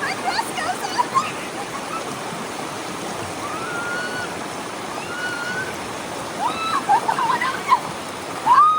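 Storm-swollen mountain creek rushing strongly and steadily. Short high-pitched chirps and squeals sound over it, several in quick succession in the second half.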